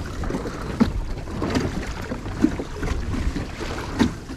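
Water lapping and slapping against a kayak hull, with a few short low knocks and wind buffeting the microphone.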